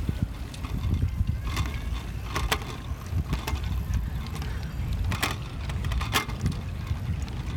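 E-bike riding along a paved path, with a steady low rumble of wind on the microphone and road noise. A handful of sharp clicks and rattles from the bike come through, about one every second or two.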